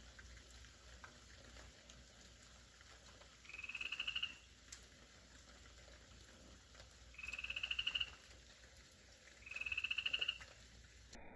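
Night-time animal chirps slowed to one-twelfth speed, heard as three croak-like trills, each a quick run of pulses that rises slightly in pitch, spaced a few seconds apart over faint hiss.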